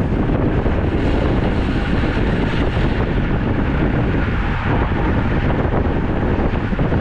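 Wind buffeting the microphone of a camera on a moving road bike: a loud, steady, low rumble of air rushing past.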